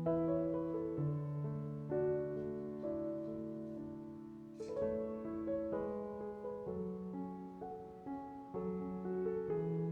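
Slow, gentle solo piano music, with sustained chords changing about once a second.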